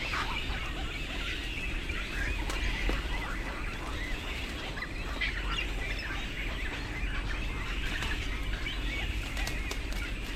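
Many birds calling at once: a dense, continuous chorus of short overlapping calls, over a steady low rumble.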